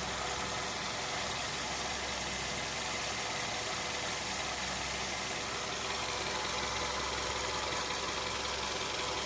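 Car engine idling steadily under the open hood, with its accessory drive belt running over the pulleys.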